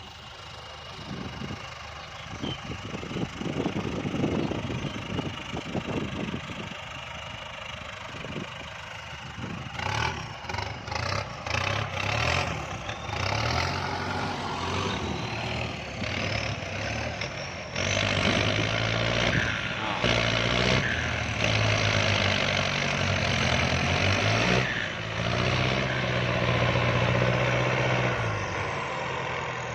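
Kubota tractor's diesel engine running, with some knocks and clatter, then revving up about two-thirds of the way through and holding high revs under heavy load, as when pulling through deep mud.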